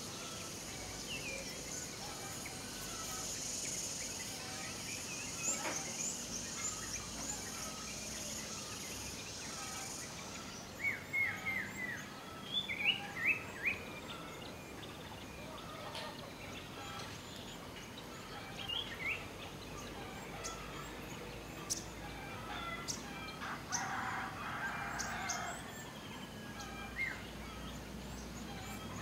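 Wild birds calling, with scattered short chirps and whistles and a quick run of bright notes near the middle. A high steady hiss underneath stops about a third of the way in.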